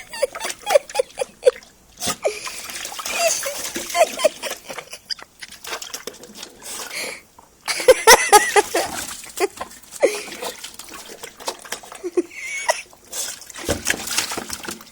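A dog playing, making short repeated yips and whines over scuffling and splashy noises.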